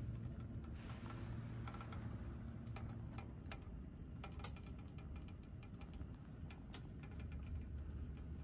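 Scattered light clicks and taps, irregular and a few close together, over a low steady hum.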